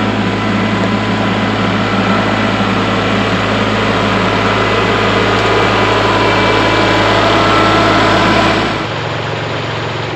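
Tractor engine running steadily under light load; its low end falls away and it gets quieter about nine seconds in.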